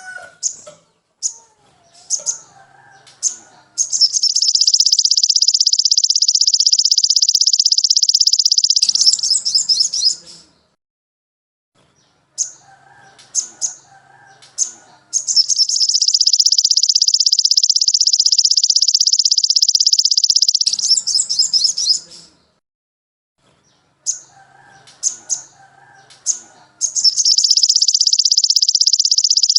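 Recorded songbird song used as tutor material: sharp, separate high chirps followed by a long, rapid, high-pitched trill lasting about five seconds. The same phrase repeats three times, at even spacing.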